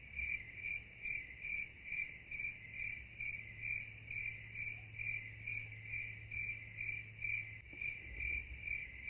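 A steady high-pitched chirping tone pulsing evenly about twice a second, with a faint low hum underneath for most of the time.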